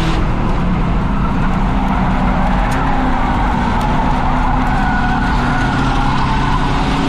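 Ford Crown Victoria's V8 engine running under load at steady racing revs, heard from inside the car with a constant roar of road and wind noise.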